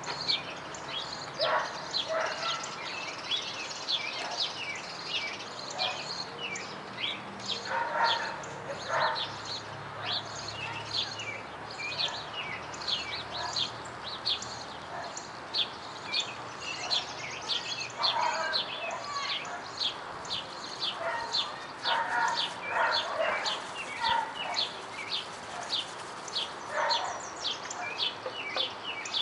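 Birds chirping continuously, a rapid run of short high calls, with a dog barking now and then.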